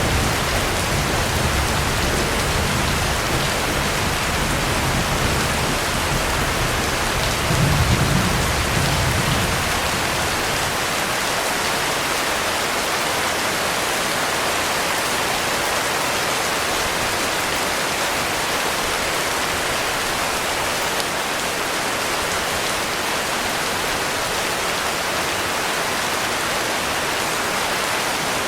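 Heavy rain falling in a steady hiss. Low rolling thunder rumbles under it, swells about eight seconds in, then fades out, leaving only the rain.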